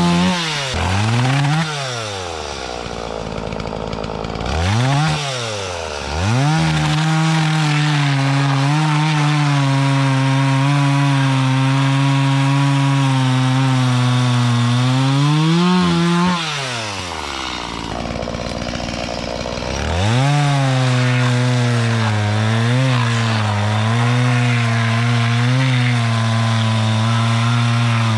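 Two-stroke Stihl chainsaw cutting through willow wood: long steady stretches under load, twice dropping back to idle and then revving up again into the cut.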